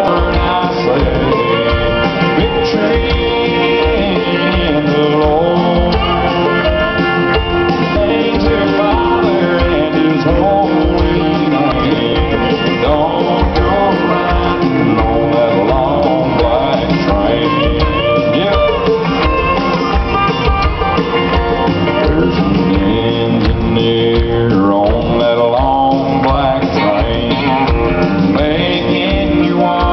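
A live country band playing, with singing over guitar and a steady drum beat.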